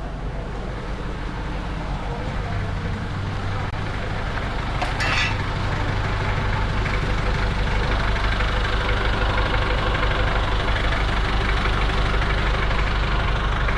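Mitsubishi 4D56 four-cylinder turbo diesel engine running steadily, growing a little louder over the first few seconds, with a brief clatter about five seconds in.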